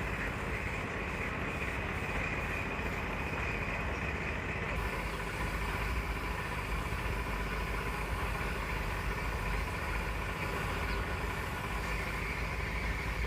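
A motor running steadily, a continuous low rumble with no change in speed.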